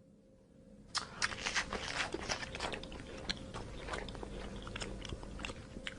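An animal chewing, a run of irregular crisp crunches starting about a second in, over a faint steady hum.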